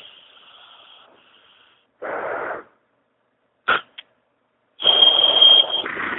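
Strange garbled electronic noises on a mobile phone call, heard through the narrow band of the phone line. A fading hiss is followed by a short burst of noise, two sharp clicks, and then a louder noisy burst with a steady high tone through its first second.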